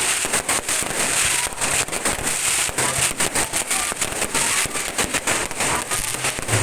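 Fireworks display: a dense, continuous run of crackling pops and bangs from bursting aerial shells, with a steady crackling hiss and low rumble beneath.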